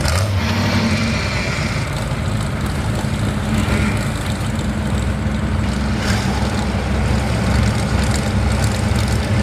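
A large truck engine running steadily at a low, even speed.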